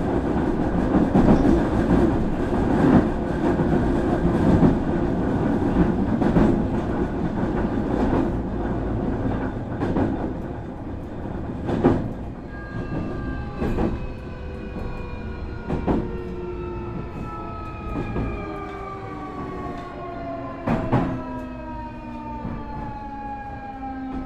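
Nankai 8300 series electric train heard from inside the car, running and then slowing. Its Hitachi IGBT VVVF inverter and Toyo Denki totally enclosed induction motors give a set of whining tones that fall steadily in pitch as it brakes, while the wheels click over rail joints at ever longer intervals.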